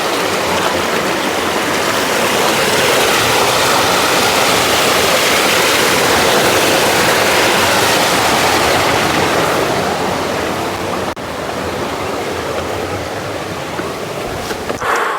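Steady rush of fast-flowing water, like a mountain stream or small waterfall, with a brief dip about eleven seconds in.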